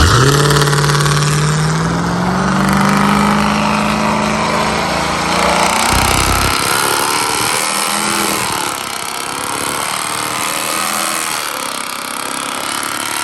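Car engine running hard, its pitch climbing steadily for about six seconds as the revs rise, then breaking off and settling lower, over a loud, rushing noise.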